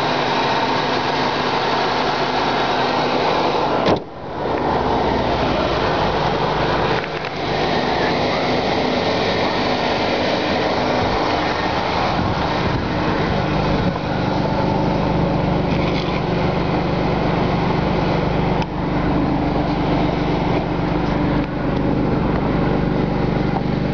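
A 2001 Pontiac Bonneville's 3800 Series II V6 idling steadily, with a brief dip in the noise about four seconds in.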